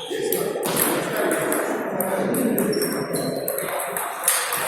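Table tennis hall: ping-pong balls clicking off bats and tables now and then over a background murmur of voices.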